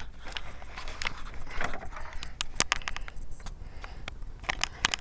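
Irregular metal clicks and clinks of a ratchet and socket being worked onto a bolt deep in the engine bay, with light scraping between them and a quick run of clicks near the end.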